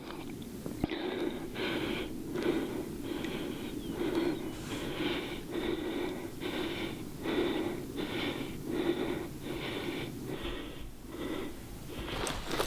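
A person breathing hard close to the microphone in a steady rhythm, about a breath every half second or so, while on the move.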